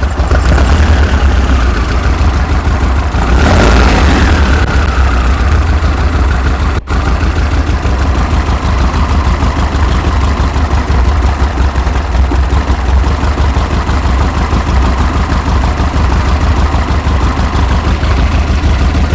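1900cc air-cooled VW flat-four with dual EMPI 40 IDF carburetors idling steadily while warming up, running smooth on its newly replaced carburetor. About three and a half seconds in the engine speed rises briefly and falls back.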